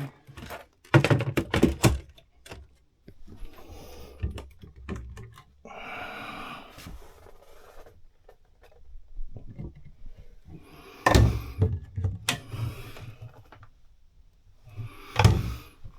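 Cabin locker lids and access panels being handled: a series of thunks and knocks as they are lifted and set down, with scraping and rustling between, the loudest knocks about a second in, around eleven seconds in and near the end.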